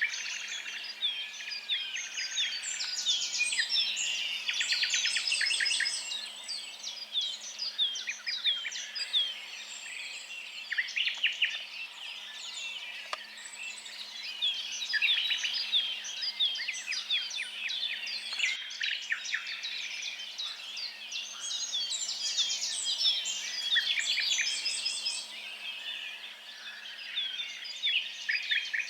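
Several songbirds singing and calling at once: a dense chorus of short chirps and whistles, with rapid trills breaking in every few seconds.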